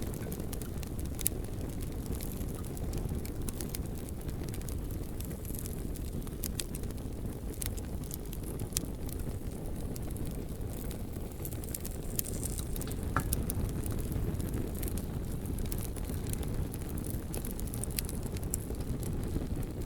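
Campfire burning, with sharp crackles and pops scattered irregularly over a steady low rumble.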